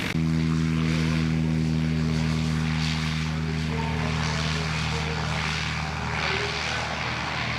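Propeller engine of a WWI Fokker fighter replica running steadily at a constant pitch.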